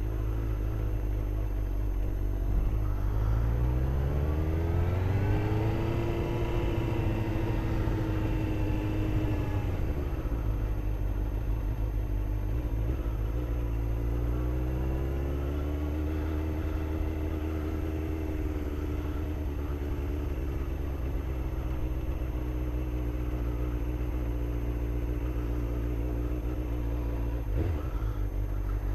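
Engine running at low speed. It picks up in pitch twice, each time settling to a steady note, with a strong low rumble throughout.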